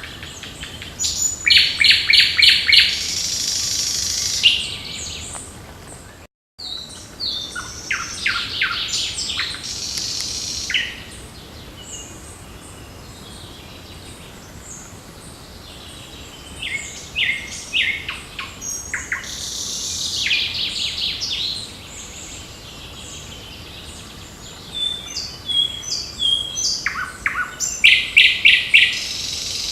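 Several songbirds singing, with phrases of quickly repeated notes and trills that come in busy stretches with quieter gaps between. The sound drops out completely for a moment about six seconds in.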